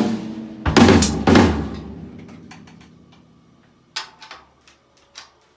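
Drum kit drums struck twice about a second in, ringing and fading out over a couple of seconds, as the freshly tightened heads are checked. After that come a few light ticks and clicks.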